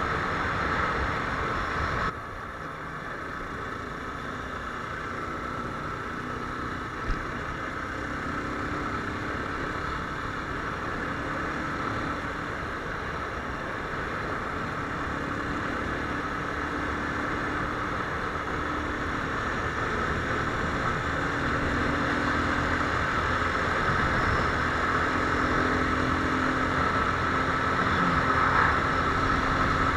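Viper R2 motorcycle engine running with steady road noise. The level drops suddenly about two seconds in, then builds slowly louder, with low engine tones coming and going.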